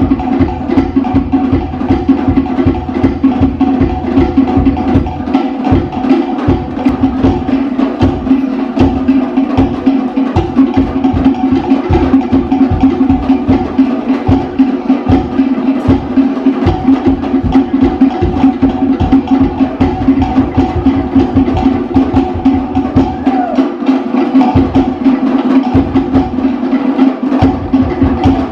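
Fast Polynesian-style luau drumming: rapid, driving wooden log-drum and drum strikes over steady held musical tones.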